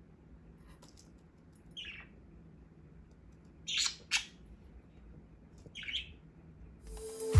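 Pet budgerigars giving four short calls, two of them close together in the middle. Music starts at the very end.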